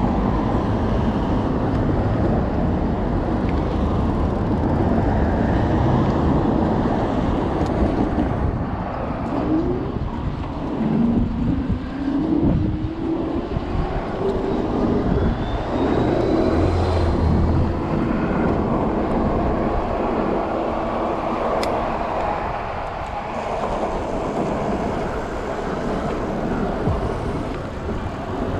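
Road and wind noise heard from an electric bike riding through city traffic, with motor vehicles passing. One vehicle's engine climbs in pitch about ten seconds in.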